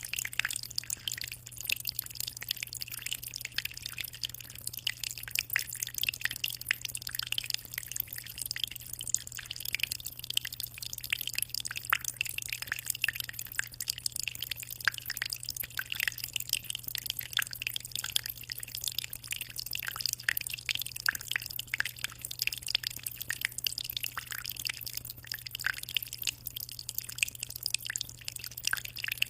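Aquarium water trickling and dripping steadily, a dense patter of small splashes at the surface over a steady low hum.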